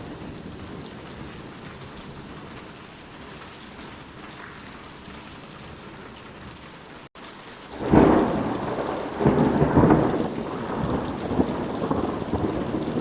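Steady rain, broken by a brief dropout about seven seconds in; then a loud roll of thunder breaks out and rumbles on in several swells over the rain.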